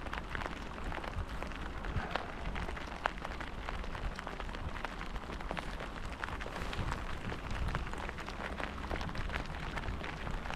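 Steady rain falling, a pattering haze with many individual drops ticking sharply, over a low rumble.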